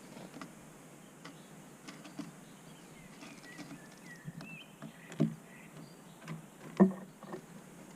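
Birds feeding at a bird table close to the microphone: irregular pecking taps and knocks on the table, with two louder knocks in the second half and a few faint high chirps about halfway through.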